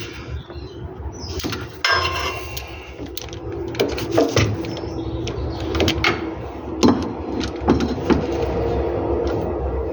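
Metal hand tools and parts clinking and knocking under a car, in irregular clanks, some ringing briefly, with bits of scraping.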